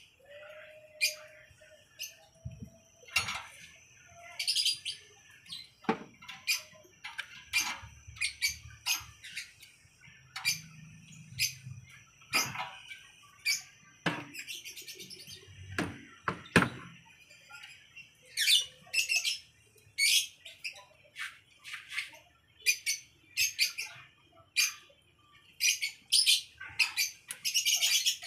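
Small birds chirping over and over in short high calls, with a few knocks of hand work under a car's hood.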